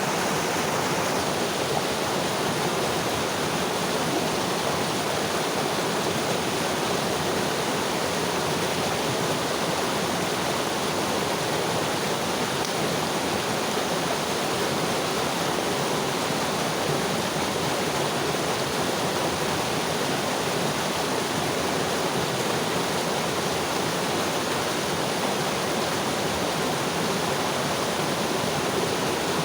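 Mountain river flowing over rocks, a steady, even rush of water with no change.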